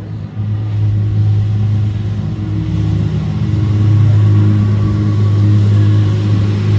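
Hypercar engine running with a loud, deep, steady note that slowly grows louder.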